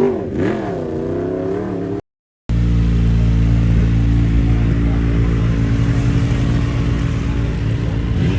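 A vehicle engine revved, its pitch rising and falling, for about two seconds; then, after a half-second gap of silence, a deep engine idling steadily.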